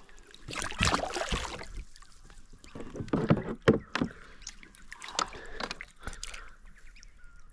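Irregular splashing and knocking at the side of a kayak as a hooked Murray cod is brought aboard, in several short noisy bursts.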